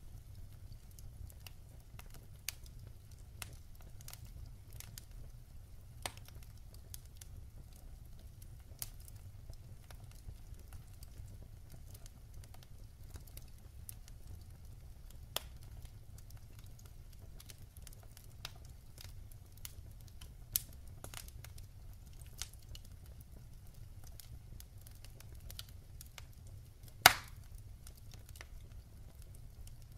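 Wood fire in a fireplace crackling, with scattered sharp pops from the burning logs and one loud pop near the end, over a steady low rumble.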